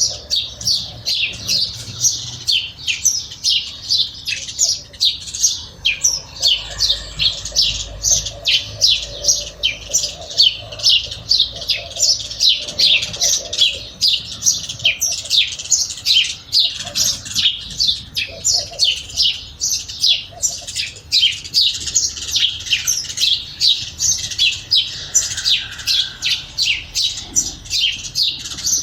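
Sparrows chirping continuously, a steady run of short, overlapping chirps at about two a second.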